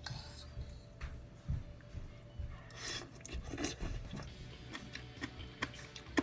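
Someone eating a spoonful of papaya salad: soft chewing and scattered light clicks, over quiet background music.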